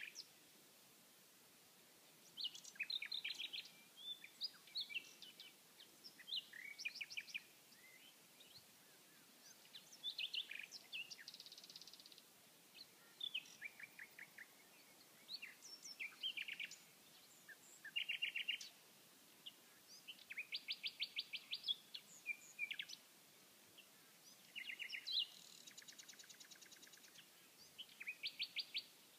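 Common nightingale singing: short, varied phrases of rapid repeated notes and trills, each a second or two long, separated by brief pauses.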